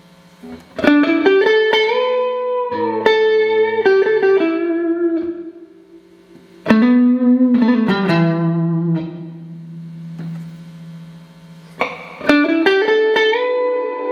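Clean electric guitar through a Boss RV-6 reverb pedal and GE-7 equalizer into Roland JC-120 amps, playing picked chords and phrases with bent notes that ring out and fade in reverb. New phrases come in about a second in, near three seconds, near seven seconds and near twelve seconds.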